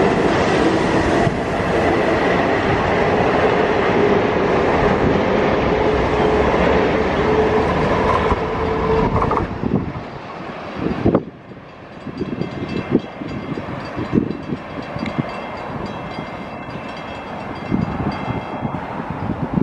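A train passing close by at speed, with steady rail and wheel noise. The noise cuts off sharply about nine and a half seconds in, and quieter, uneven knocks and rattles follow.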